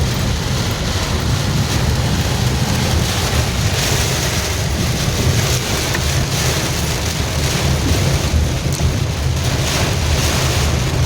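Heavy rain hissing steadily over the low rumble of a vehicle on the move.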